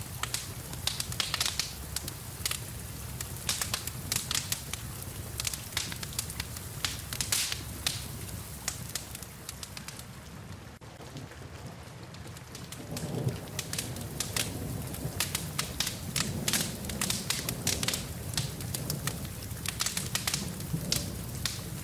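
Wood fire crackling with frequent sharp pops and snaps, over a steady hiss of rain. The crackling thins out briefly about halfway through, then a low rumble comes in under it.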